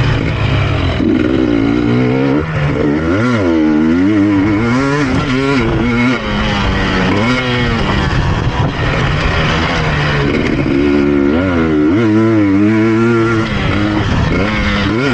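KTM EXC 250 TPI two-stroke enduro engine being ridden hard, its pitch rising and falling over and over as the throttle is opened and closed. Heard from a helmet chin-bar camera.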